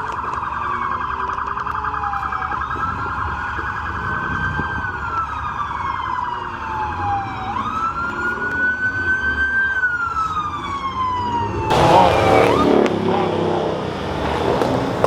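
Siren with a fast warble in the first second or so, then slow wails, its pitch rising and falling over a few seconds at a time. About twelve seconds in, the wail stops and a sudden loud burst of noise takes over.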